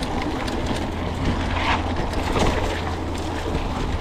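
Wind rumbling on an action camera's microphone as a mountain bike rolls along a dirt trail, with light clicks and rattles from the bike.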